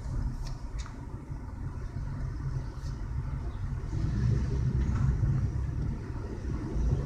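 Low, steady rumble of a car engine and exhaust at low speed, heard from inside a moving car, swelling a little about four seconds in.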